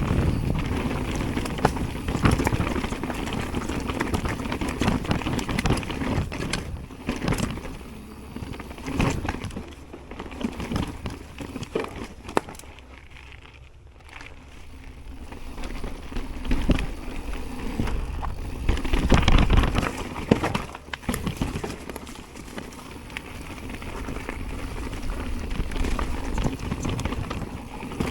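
Jamis Hardline mountain bike ridden down a dirt trail: rolling tyre noise with frequent clatters and rattles, going quieter for a couple of seconds about halfway through.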